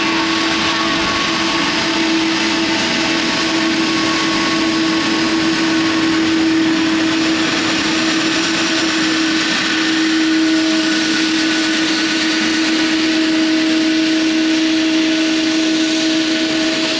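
Jet airliner engines running nearby: a steady whine with several held tones over a dense rushing hiss, unchanging throughout.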